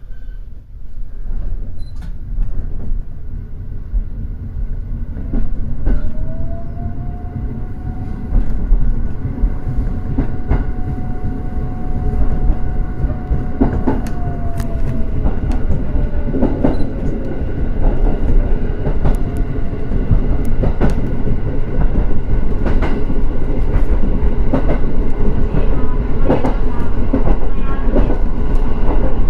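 Electric train pulling away and gathering speed, running louder as it goes, with wheels clicking over rail joints. A motor tone rises about six seconds in, holds, then falls away.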